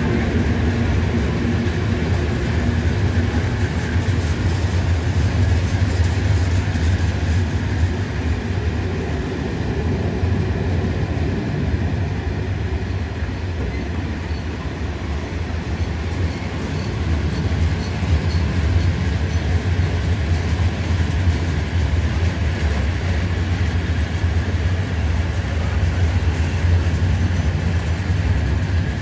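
Freight coal train rolling past, its wagon wheels on the rails making a steady deep rumble with no let-up.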